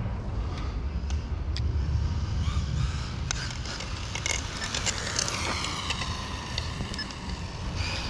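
Electric RC truck (Rlaarlo Omni Terminator) speeding in with a high motor whine that falls steadily in pitch from about four seconds in as it passes and slows, over a steady low rumble.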